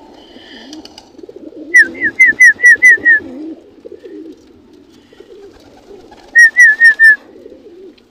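A flock of pigeons cooing steadily in a loft, with two runs of loud, high, rapid chirps, about seven notes a couple of seconds in and about five more near the end.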